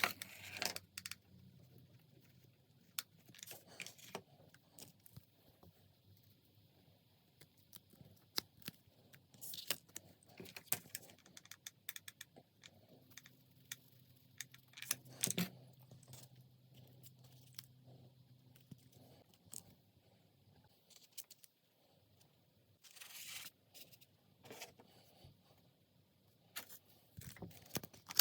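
Hands working with paper craft materials: scattered soft rustles, scrapes and small clicks, with brief louder crinkles now and then.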